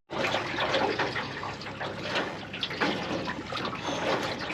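Water splashing and trickling around a canoe as it is paddled: a canoe paddle dipping and dripping, with water moving along the hull.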